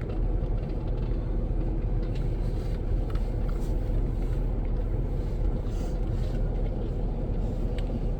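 Steady low rumble inside a parked vehicle's cabin, with a few faint scattered ticks.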